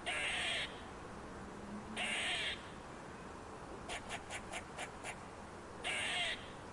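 A bird giving three harsh, hoarse calls, each about half a second long, with a quick run of short clicks between the second and third.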